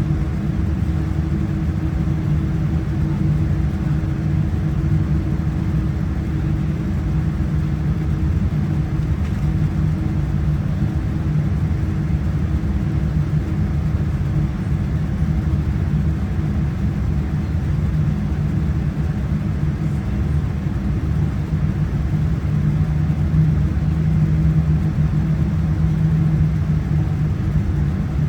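Cabin noise inside a Boeing 787-9 airliner: a steady, deep rumble of the engines and airflow with a constant low hum, growing slightly louder near the end.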